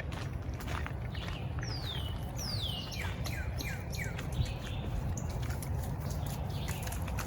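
Songbirds singing: two long, clear whistles that slide downward, then a quick run of about five shorter falling notes, over the steady footsteps of someone walking.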